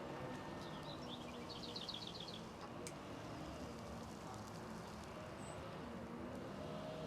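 Faint background with a steady low hum. Over it a small bird chirps: a quick run of about eight short high notes a couple of seconds in, then one higher chirp later.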